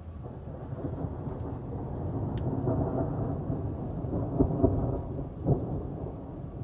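Rolling thunder from a nearby storm, a low rumble that builds over the first couple of seconds and carries a few sharp cracks in the middle before it eases off.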